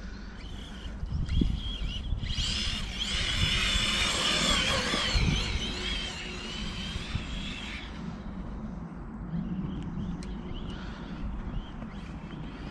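Arrma Kraton 6S RC car's brushless motor whining as it drives through snow, its pitch rising and falling with the throttle, with low tyre rumble and a few knocks. The whine is loudest a few seconds in and fades in the second half.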